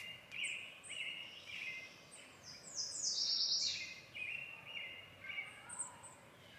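Small birds chirping: a string of short repeated high notes, with a louder run of higher, slightly falling notes in the middle.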